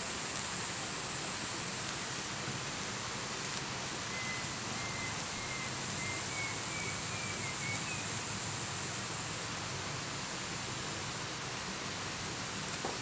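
Steady forest ambience: an even rushing hiss with a faint high steady drone above it, and a short run of faint chirps in the middle.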